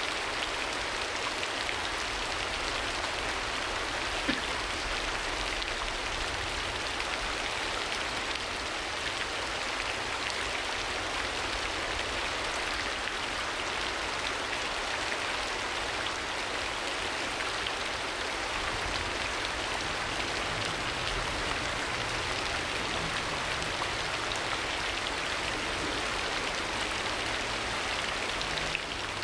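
Steady rain falling, an even hiss of many drops, with a single light tick about four seconds in.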